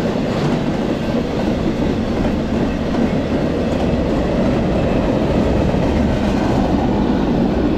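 Double-stack intermodal freight train rolling past: a loud, steady noise of steel wheels running on the rails as the container well cars go by.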